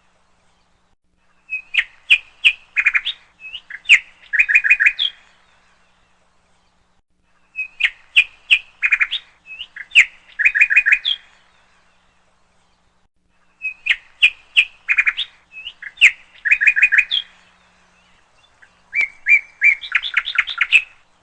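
Songbird chirping in phrases of rapid, sharp notes, each lasting about four seconds. The same phrase comes back about every six seconds with silence in between, like a looped recording of bird song.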